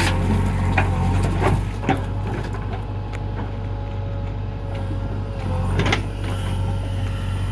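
Diesel engines of a backhoe loader and tractors running steadily with a steady whine over them, broken by several sharp metallic knocks, the loudest about six seconds in.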